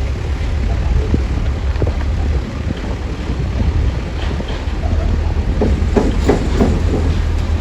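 Heavy diesel engine running steadily with a low rumble, with wind noise on the microphone and a few short knocks a little past halfway through.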